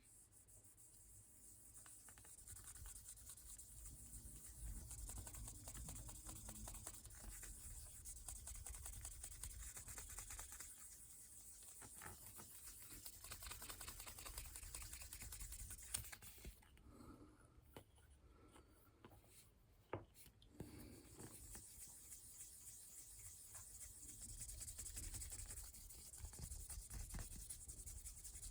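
Faint steady rubbing of a fine abrasive pad polishing a briar pipe bowl. It stops for a few seconds past the middle, with a couple of light clicks, then resumes.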